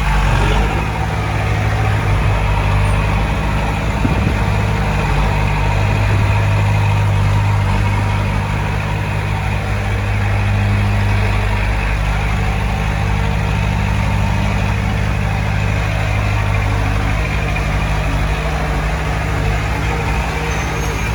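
Diesel engine of heavy earthmoving machinery running steadily, its pitch shifting slightly now and then.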